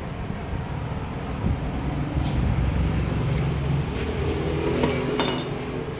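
Metal parts and tools clinking a few times over a steady low rumble, with a cluster of clinks around five seconds in.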